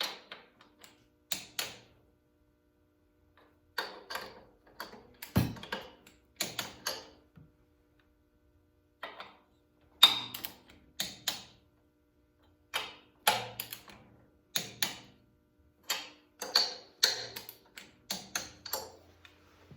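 Click-type torque wrench ratcheting and clicking on cylinder-head bolts as they are re-checked to 30 ft-lb after a head gasket replacement: short, irregular clusters of clicks with pauses between, the sharpest one about ten seconds in.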